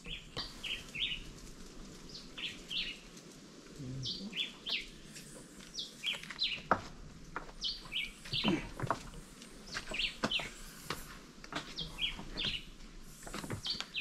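Birds chirping: many short, high calls scattered throughout, with a few brief knocks.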